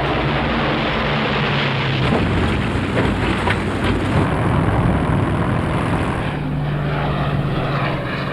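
Propeller-driven aircraft engines droning steadily overhead, with a few sharp cracks about two to four seconds in.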